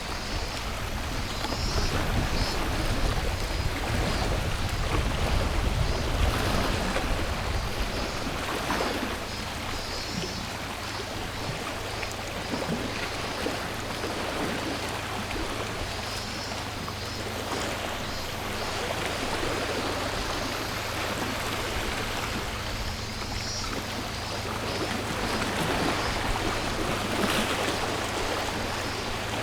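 Sea waves washing in and out on the shore, swelling louder a couple of seconds in and again near the end, with a chorus of cicadas buzzing in the background.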